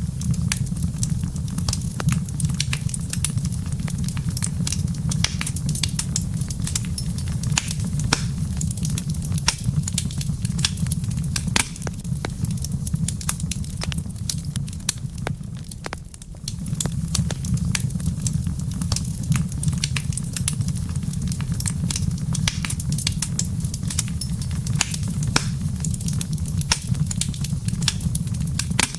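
Wood fire crackling in a fireplace: dense, irregular sharp pops and snaps over a steady low rumble, which briefly drops away about halfway through.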